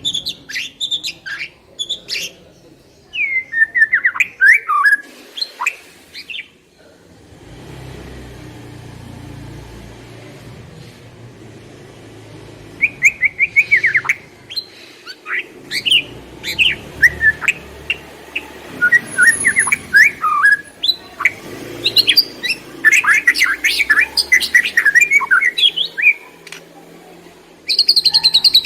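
Songbird chirping and singing in quick bursts of high, sweeping notes. It is a pancingan lure call played to get young white-rumped shamas singing. The calls stop for several seconds partway through, leaving a low rumble, then resume thickly.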